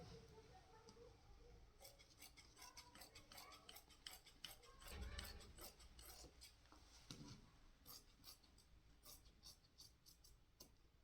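Faint, irregular run of quick sharp clicks and snips, several a second, with a soft low thud about halfway through.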